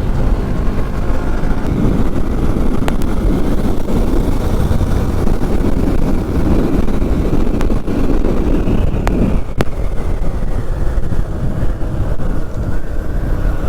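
Motorcycle riding along with its engine running, under heavy wind rumble on the action camera's microphone.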